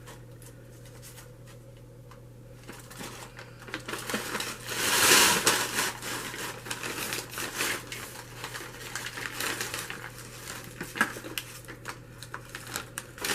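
Paper takeout bag rustling and crinkling as it is handled and dug into, with one longer, louder rustle about five seconds in and scattered light taps and crackles.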